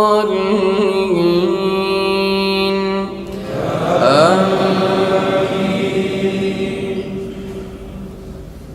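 A single male voice holds the last drawn-out note of a Quranic recitation, then about three seconds in a congregation of many voices chants a long unison 'Ameen' that swells and fades away.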